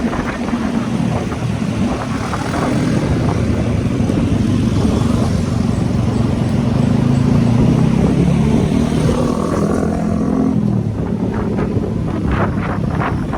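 Motorcycle engine running under way, its pitch climbing gently as it accelerates and dropping after about ten seconds as the throttle eases off.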